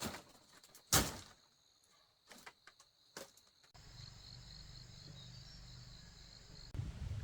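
A few sharp knocks, the loudest about a second in, over a steady high insect trill. A few seconds in the sound changes abruptly to a pulsing insect chirp over a low rumble.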